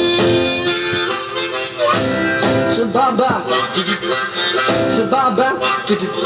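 Harmonica played over a 1960s beat-band backing: a long held note, then phrases of notes bending up and down.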